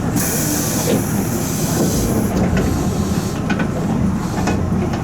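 Eizan Electric Railway Kurama Line train at a station after its doors close: a hiss of air lasts about the first two seconds, under the train's steady low rumble, which then carries on alone.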